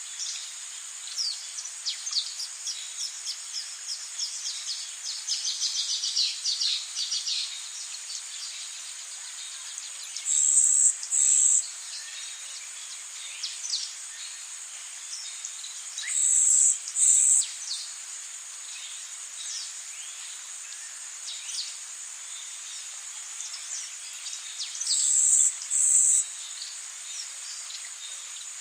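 Rainforest ambience: a steady high-pitched insect drone with many short, downward-sweeping chirps and calls. Three times a loud insect buzz comes in pairs of two short bursts, about ten seconds in, again near seventeen seconds, and near the end.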